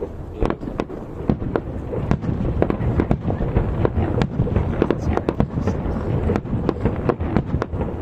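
Fireworks display: a dense, irregular string of bangs and crackles, several a second, over a continuous rolling rumble that thickens after about two seconds.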